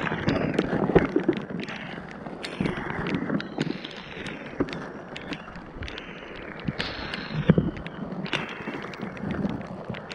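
Rummaging through scrap in a dumpster: scattered knocks and clatters over a constant rough hiss, muffled through a water-damaged action camera's microphone.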